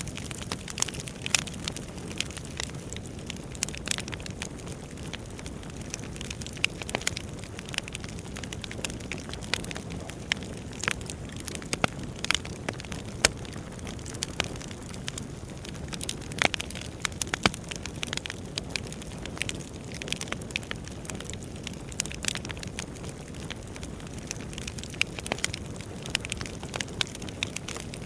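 Wood fire burning with a steady low rumble and frequent irregular crackles and pops from the burning logs.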